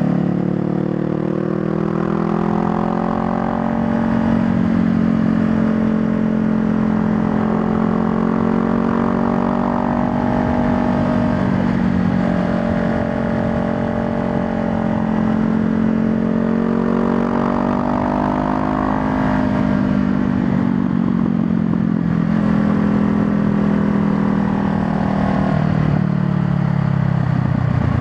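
Honda Rebel 500's parallel-twin engine running on the move, its pitch climbing and dropping several times as it accelerates through the gears, then falling near the end as it slows.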